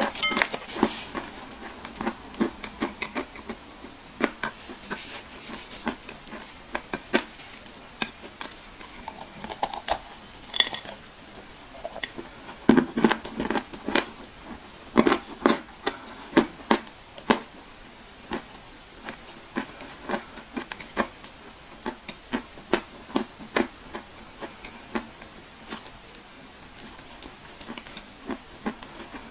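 Dry clay crunching and crumbling under close miking: a run of short, irregular crackles and snaps. They come thickest a little before halfway through and thin out toward the end.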